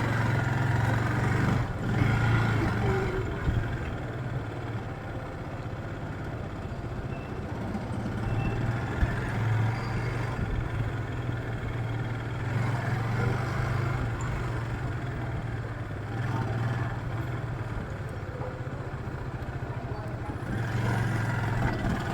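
Motorcycle engine running with a steady low hum, with street traffic noise around it.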